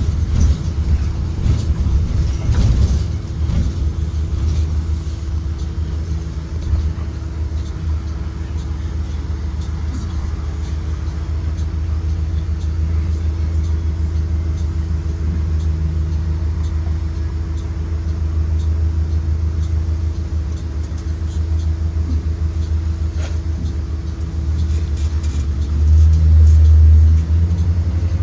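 2023 Blue Bird Vision school bus under way: a steady low engine and road rumble with a constant hum, swelling louder for a moment near the end.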